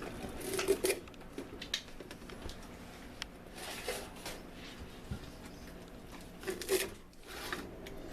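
Scattered light clicks, taps and rustles of things being handled in a kitchen, with two louder clusters, one under a second in and one later on.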